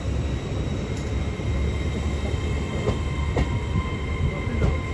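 LNER Class 800 Azuma, a Hitachi bi-mode train, at the platform: a steady low rumble with constant high electrical whines above it and a few faint clicks.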